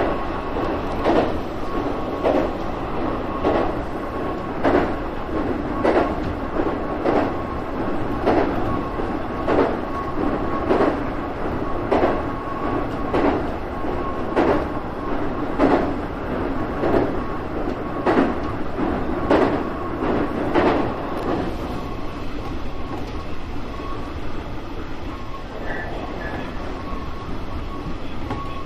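201 series electric train running, heard from inside the driver's cab: its wheels clack over rail joints at a steady pace, about one clack every 1.2 seconds, over a steady rumble and a faint high steady hum. The clacks stop about three quarters of the way through, leaving only the smooth running noise.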